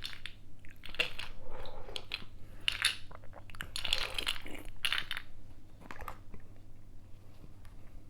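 Ice being bitten and chewed, crunching in a run of irregular bursts that thin out over the last couple of seconds.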